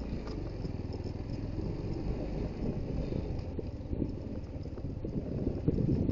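Suzuki GD110HU motorcycle's single-cylinder engine running steadily, a continuous low rumble.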